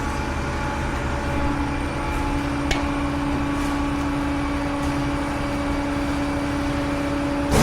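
Truck engine running steadily under way, with a sharp click a little over a third of the way in and a loud noisy burst at the very end.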